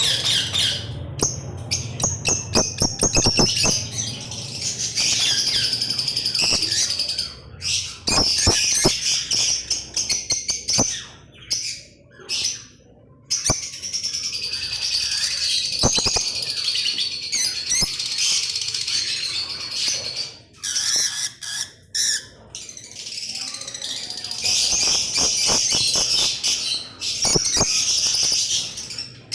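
A flock of lovebirds chattering and screeching almost without pause, with a couple of short lulls.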